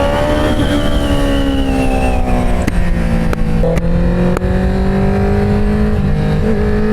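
Inline-four engine running under way at high revs. Its pitch eases down over the first couple of seconds and then holds steady, over a steady low rush of wind and road noise.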